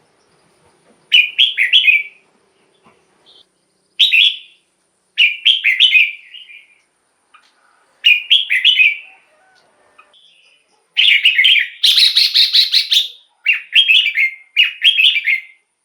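Red-whiskered bulbul singing short, loud warbled phrases separated by pauses of a second or two. In the last five seconds the phrases follow each other almost without a break.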